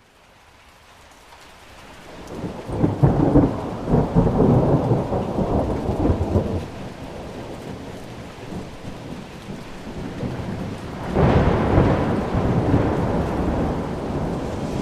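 Thunderstorm with rain falling steadily. A long roll of thunder builds about two seconds in and rumbles for several seconds, then a second, sharper peal breaks about eleven seconds in and slowly rolls away.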